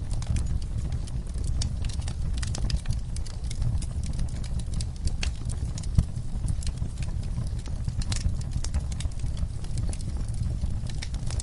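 Wood fire in a fireplace crackling, with irregular sharp crackles and pops over a steady low rumble. One louder pop comes about six seconds in.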